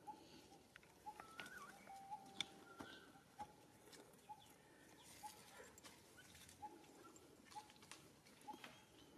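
Quiet outdoor ambience with a faint bird calling a short note over and over, about once a second, and a few scattered small clicks.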